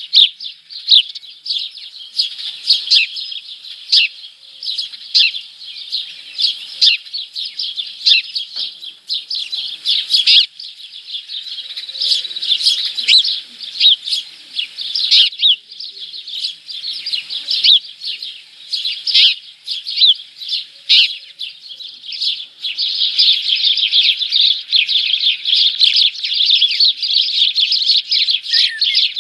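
Small birds chirping and twittering in quick, overlapping calls, thickening into a dense, continuous chatter for the last several seconds.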